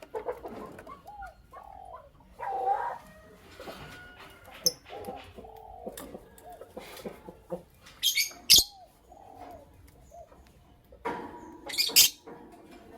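Lovebirds calling: a string of short, soft, arched chirps, broken twice (about eight seconds in and again near the end) by loud, shrill, piercing calls.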